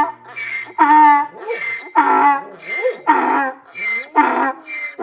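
Donkey braying: a long hee-haw, its strokes alternating high and low about twice a second, stopping right at the end.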